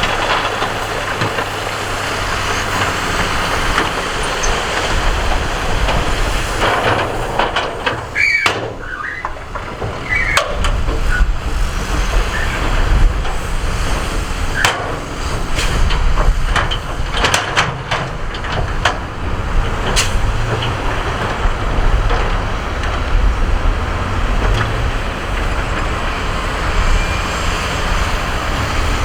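Heavy diesel earthmoving machinery running steadily under load while spreading gravel and rock, with sharp knocks and clatters of rock through the middle and a brief squeal about eight seconds in.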